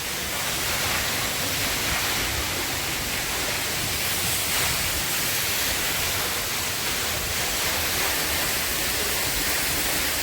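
Kapila Dhara waterfall pouring steadily: a dense, even rush of falling water.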